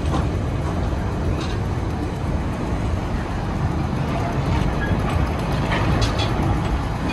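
Railway passenger car rolling along the track, heard from on board: a steady low rumble with a few faint clicks from the rails.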